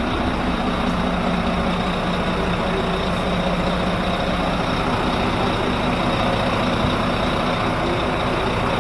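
Volvo Penta IPS 900 marine diesel engines running steadily: a constant, even engine drone that holds the same pitch throughout.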